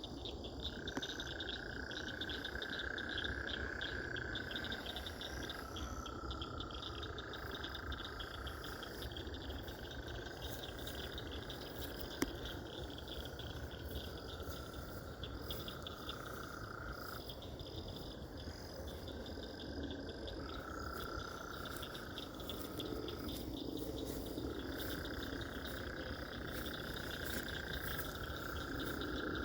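Night chorus of frogs: long trills of several seconds each, one after another at slightly different pitches, over a dense, fast, high-pitched pulsing chorus.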